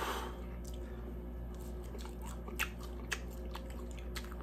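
A person chewing a breaded chicken nugget, with irregular small crunches and wet mouth clicks.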